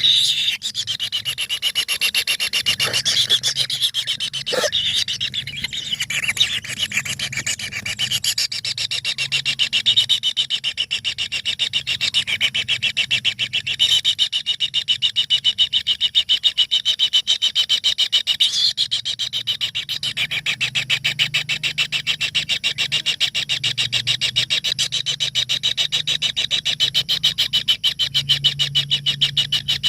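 A brood of four tengke bird nestlings begging inside a nest hole: a continuous, rapidly repeating raspy chorus.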